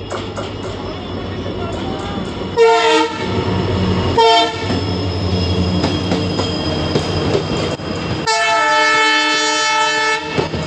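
WDP4 diesel locomotive running through at speed with its train: two short horn blasts about two and a half and four seconds in, then a long horn blast lasting over two seconds near the end, over the steady rumble of the engine and the coaches' wheels on the rails.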